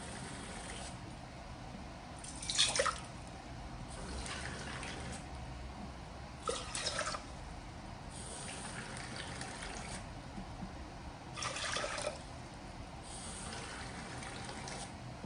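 Water being measured out cup by cup into a pot: a stretch of running water, then a short splash as the cup is emptied, repeated about every four to five seconds.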